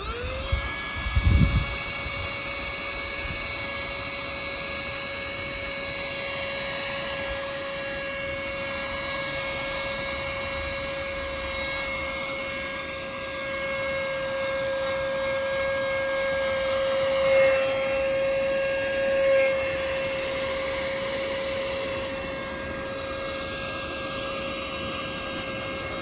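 Portable rechargeable mini handheld vacuum cleaner switching on and running with a steady high-pitched motor whine, with a thump just after it starts and two brief louder bumps as the nozzle works over a car floor mat about two-thirds of the way through. Its suction is weak: it picks up only when pressed right onto the mat.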